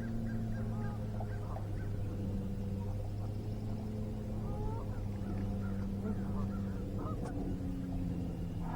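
Steady hum of a boat motor, with many short bird calls over it and a single click about seven seconds in.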